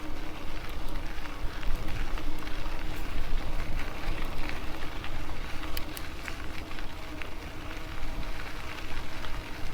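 Riding noise from an e-bike on a trail: tyres rolling with a steady crackle of small clicks, wind rumbling on the microphone, and a faint steady hum underneath.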